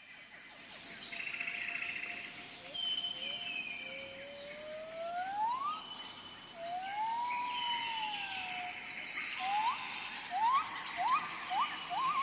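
Wild animal calls as a run of whistles: a long rising whistle, then an arching one rising and falling, then about five short upward-sweeping whistles in quick succession near the end, over a steady high buzz of insects.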